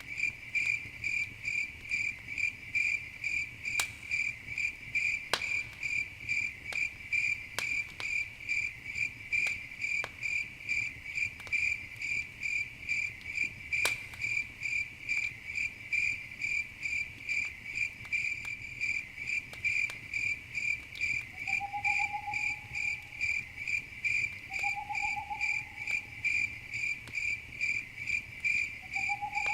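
Crickets chirping in a steady pulsing rhythm, about two to three chirps a second, with a few sharp pops of a crackling campfire in the first half. Three short, slightly falling calls come in the last third.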